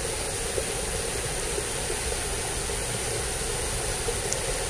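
Steady rushing of water flowing in a drainage ditch swollen after rain, with a thin, steady high whine above it.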